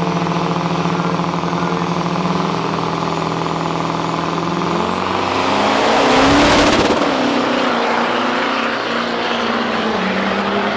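Turbo-diesel drag-racing pickup trucks making a full-throttle run. The engine note steps in pitch as they shift, then swells loudly as a truck passes close about six seconds in, with a high whistle rising and falling.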